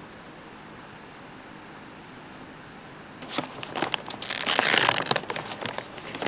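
A steady, high-pitched chorus of crickets or other insects that cuts off about three seconds in. It gives way to close crackling and rustling clicks, with a louder burst of crunching rustle in the middle of that stretch.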